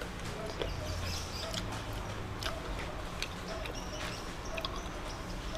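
Close-up eating sounds: chewing with small wet mouth clicks, and fingers picking through spicy boneless chicken feet and rice on a tray. Irregular short clicks scattered throughout.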